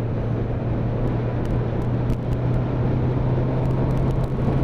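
Motorcycle engine running steadily at riding speed, with wind and road noise around it.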